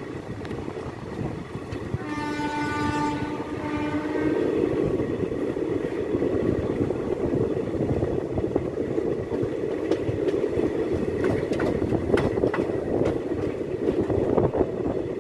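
Indian passenger express train running, heard from one of its coaches: a train horn sounds for about two seconds, starting about two seconds in. Under it the wheels rumble over the track, growing louder, with sharp clicks and clatter over rail joints in the later part.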